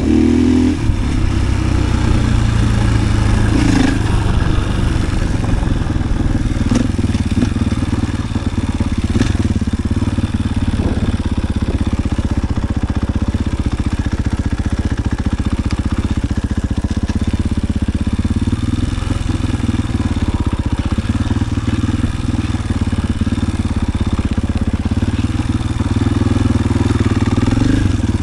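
KTM EXC-F 500 enduro motorcycle's single-cylinder four-stroke engine running while riding, at fairly steady revs, with a few sharp clicks along the way.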